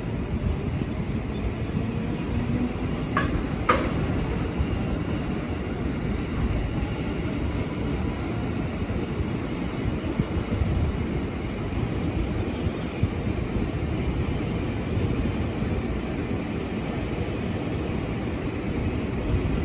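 JR 205 series electric commuter train running through the station: a steady low rumble, with two sharp clicks a little over three seconds in.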